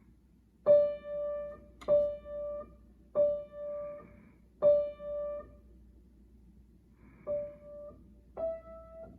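Piano played slowly one note at a time: five separate notes at about the same pitch, roughly a second or more apart with a longer pause before the fifth, then a sixth slightly higher near the end.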